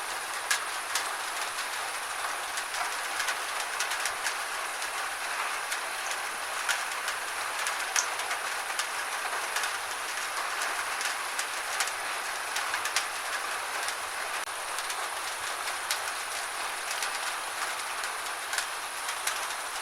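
Gentle rain falling steadily: an even hiss with many scattered sharper ticks of individual drops.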